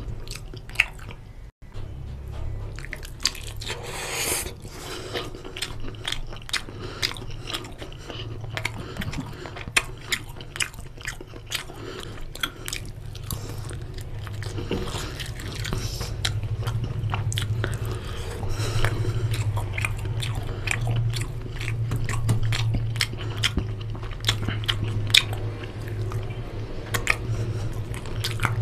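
Close-miked chewing and biting of chicken curry and rice, with many short wet mouth clicks.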